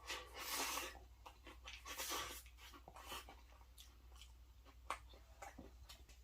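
Close-miked mouth sounds of a person eating: faint chewing clicks and breathy exhales, the loudest breaths about half a second and two seconds in.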